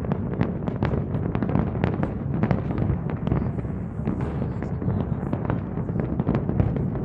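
Fireworks going off in a dense, unbroken barrage: many sharp bangs and crackles, several a second, over a steady low rumble.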